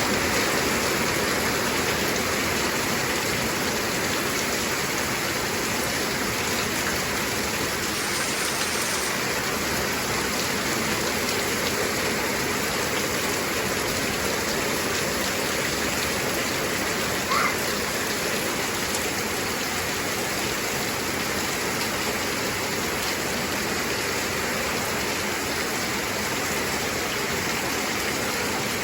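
Heavy rain falling steadily, a dense even hiss of drops on surfaces. About two-thirds of the way through comes one brief rising chirp.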